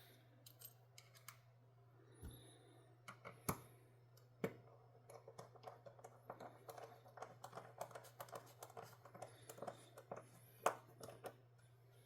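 Faint small clicks and taps of folding-knife parts being handled and fitted together during reassembly. Two sharper clicks come a few seconds in, then a run of light rapid clicking.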